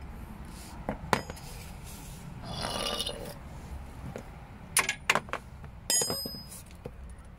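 Metal tools clinking against steel suspension parts: several sharp metallic clinks that ring briefly, about a second in and again around five to six seconds in, with a short rattling scrape in between.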